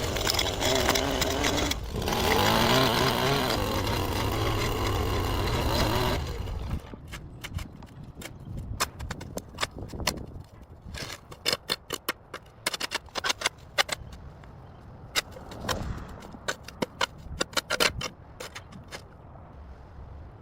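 A small petrol engine, like that of a garden power tool, runs with a wavering pitch and cuts off about six seconds in. After it, a run of sharp clicks and snaps.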